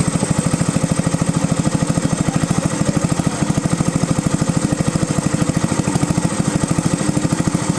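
Sonalika Gold WP30K kerosene engine running steadily, with a fast, even exhaust beat.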